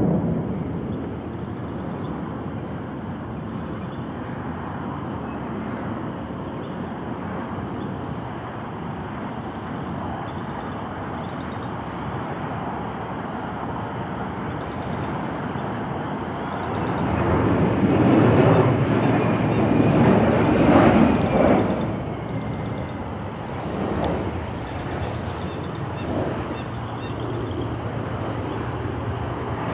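Jet aircraft engine noise: a steady rumble and rush that swells louder for a few seconds about two-thirds of the way through, then settles again.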